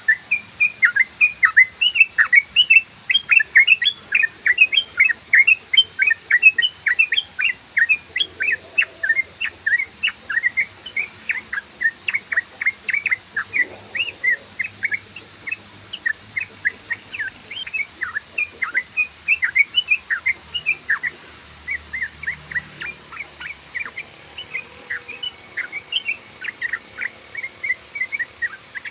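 Yellow-vented bulbul (trucukan) singing a long, rapid 'ropel' run: short bubbly whistled chirps, about three to four a second, without a break.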